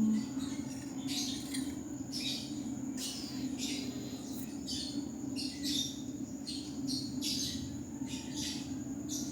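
Birds chirping, short high calls repeating about twice a second over a steady low hum.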